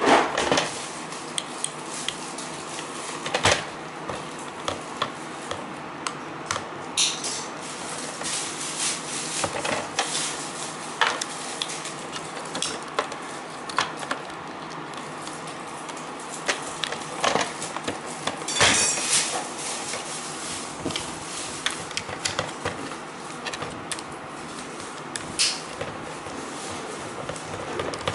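Scattered clicks, knocks and rattles of hard plastic parts being handled as the battery of an iRobot Braava robot mop is swapped, some in quick clusters, over a steady low hiss.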